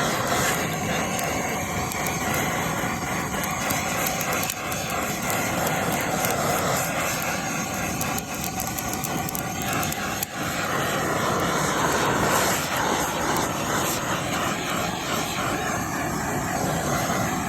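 Blowtorch flame blowing steadily on pine cladding, with faint crackling from the wood as it chars.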